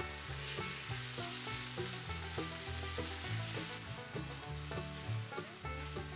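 Diced chicken breast and onion sizzling in hot oil in a frying pan as they are stirred with a silicone spatula; the sizzle softens about four seconds in. Soft background music with a steady bass line plays underneath.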